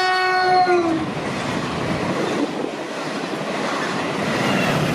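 Caltrain commuter train passing close by. Its horn, a chord of several tones, drops in pitch as it goes by and cuts off about a second in. Then comes the steady rushing noise of the double-deck gallery cars rolling past.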